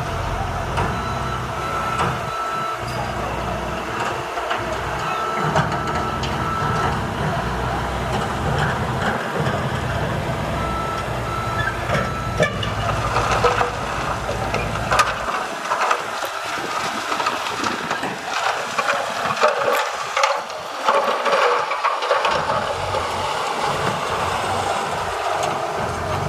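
Heavy-vehicle reversing alarm beeping in short runs over a diesel engine running; the low engine rumble falls away about halfway through, leaving rougher clattering noise.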